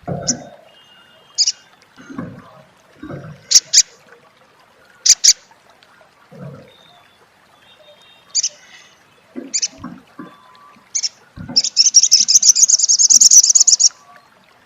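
Olive-backed sunbird calling: short sharp high chirps spaced a second or two apart, then a loud rapid chattering 'crecet' run lasting about two seconds near the end. Soft low thumps sound between the calls.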